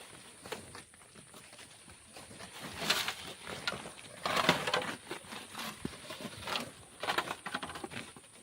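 Shovel scooping and tossing sand, heard as a few separate scraping, rushing strokes about one to two seconds apart, the loudest about four and a half seconds in, over a faint steady high-pitched whine.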